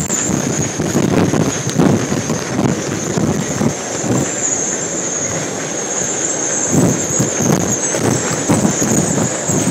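Hurricane-force wind gusting and buffeting the microphone in irregular rumbling surges, with a steady high whistle over it.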